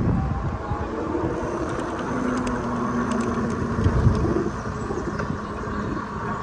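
Street traffic: motor vehicles running past, a steady low rumble with a faint engine hum.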